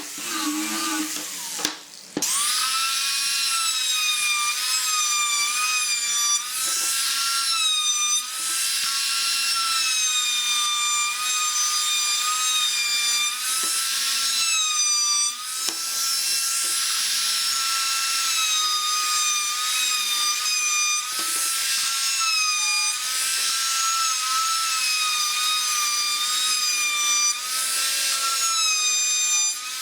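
High-speed electric power tool working wood. Its motor whine spins up about two seconds in and then runs steadily, with small dips in pitch now and then as it cuts.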